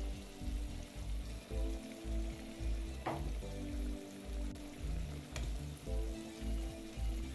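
Beaten eggs with diced bacon and red pepper sizzling in olive oil in a frying pan, with a fork stirring the mixture near the end. Background music with a steady beat plays over it.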